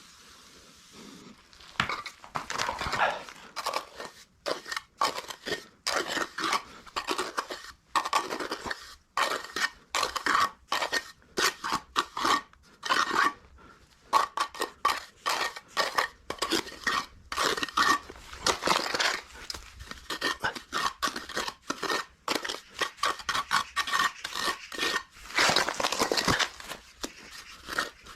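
A metal tool works cement mortar in quick, irregular scraping strokes that start about two seconds in and keep going.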